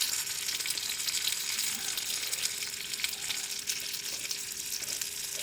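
Steady sizzling with many small crackles from food cooking over a campfire, with a faint steady tone underneath.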